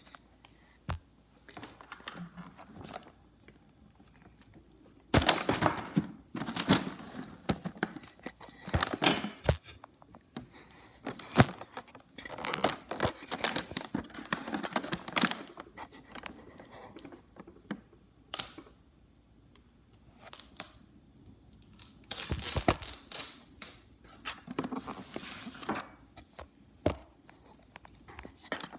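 Crinkling and tearing of the wrapping on a bánh in cake as it is unwrapped by hand, in several irregular bursts of rustling with small clicks and quiet gaps between.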